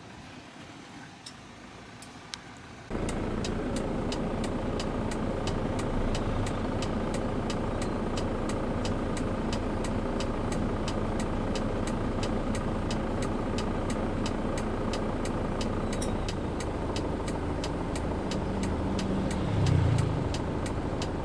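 Steady car noise as heard from a moving vehicle, starting abruptly about three seconds in, with a rapid run of light ticks over it and a brief louder low hum near the end.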